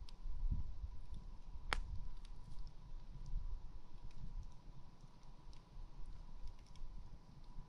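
Campfire crackling: many small ticks of burning wood, with one sharp pop a little under two seconds in, over a low rumble.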